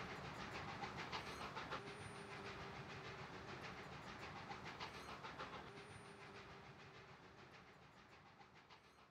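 Train wheels clicking steadily over the rail joints, the sound slowly getting fainter, with a faint tone coming and going every few seconds.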